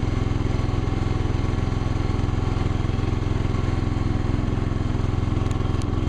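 Gravely tractor engine running steadily, loud and close, with an even low pulse.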